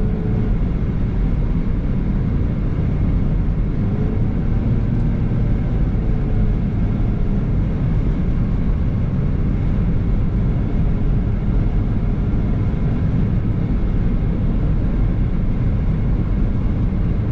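Steady road and engine noise inside a moving car's cabin, a loud, even low rumble without pauses.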